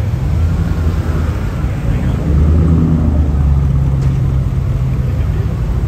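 Low engine rumble of cars cruising past, swelling louder about two seconds in and easing off after about three and a half seconds.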